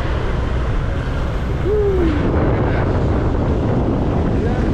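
Wind buffeting the microphone over the steady rumble of a moving motorbike in city traffic, with a short sliding tone a little under two seconds in.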